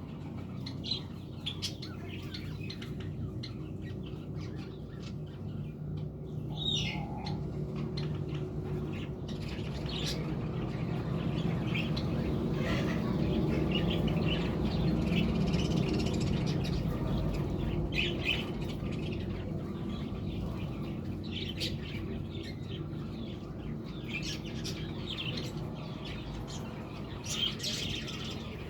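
Budgerigars chirping and chattering in short, scattered squeaky calls over a steady low background hum.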